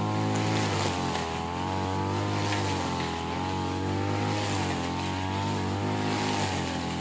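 Small petrol engine of a grass-cutting machine running steadily, its pitch wavering slightly up and down.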